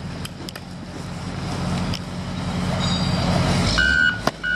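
Heavy construction machine's engine running steadily with a low rumble, then about three-quarters of the way through its backup alarm starts beeping as it reverses, two beeps before the end.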